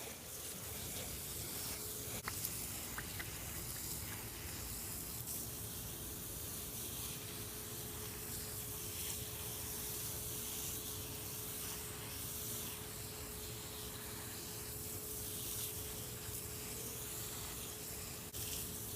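Garden hose spraying water onto a lint-clogged mesh screen, washing cottonwood fluff off it: a steady hiss of spray. A faint steady hum runs beneath it.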